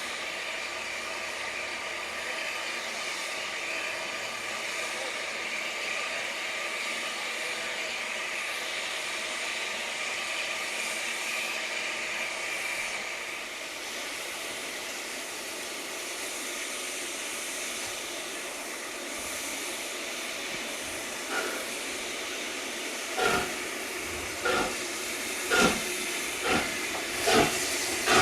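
Steam locomotive hissing steam steadily. About three-quarters of the way in it starts pulling away, and its exhaust chuffs begin slowly and quicken.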